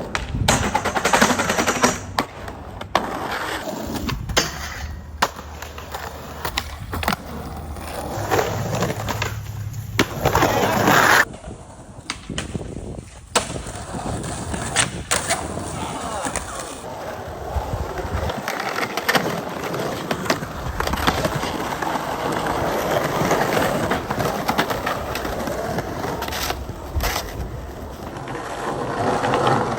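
Skateboards rolling on rough pavement, with sharp clacks and knocks of boards hitting the ground and popping tricks, over several short clips.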